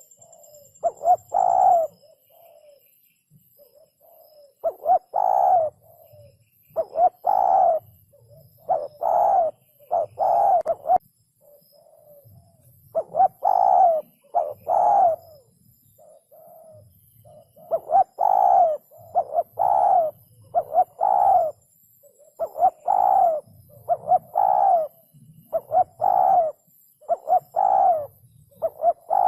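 Spotted dove cooing: short phrases of two to four low coos, repeated every couple of seconds with brief pauses between them.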